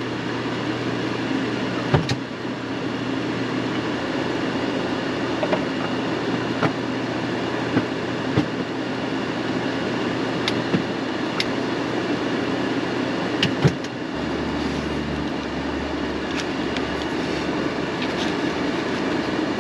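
Brussels sprouts cooking in a pan on the stove, hissing steadily with a few sharp crackles and clicks, over a low hum that drops lower about fourteen seconds in.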